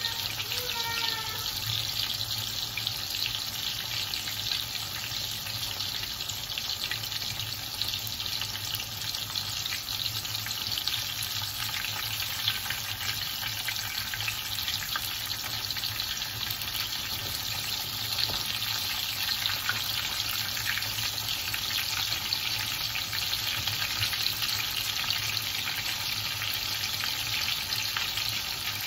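Breaded chicken schnitzels shallow-frying in hot oil in a pan: a steady sizzle with fine crackling, over a faint low hum.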